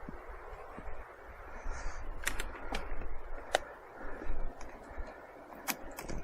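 Mobility scooter travelling along a path: a steady rumble and hiss of motor and wheels, with about four sharp clicks and knocks.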